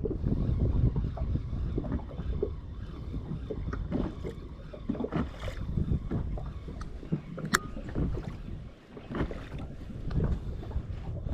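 Wind buffeting the microphone and water slapping against the hull of a small fishing boat, with scattered light knocks and one sharp click about seven and a half seconds in.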